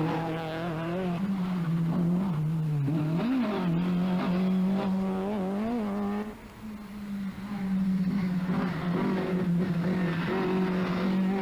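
Rally car engine driven hard, its revs rising and falling with throttle and gear changes, with a brief drop in loudness about six seconds in before it picks up again.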